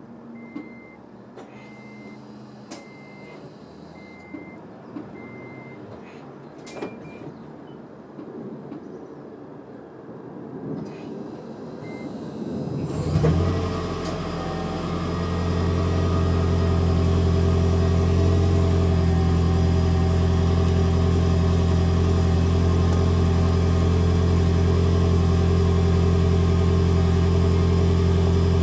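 A series of short high beeps, then about halfway through the 2011 Toyota Prius's 1.8-litre four-cylinder engine starts. It climbs and settles into a steady, fast idle, held in maintenance mode, and is heard through a Tanabe Medalion Touring cat-back exhaust with a deep, even drone.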